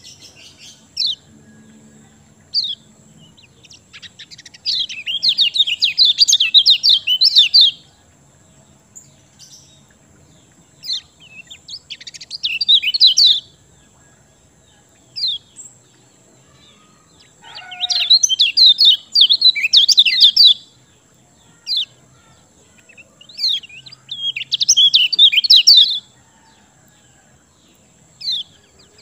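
Kecial kuning songbird singing in fast, chattering phrases of rapid high chirps, each phrase lasting two to three seconds, with single short chirps between them.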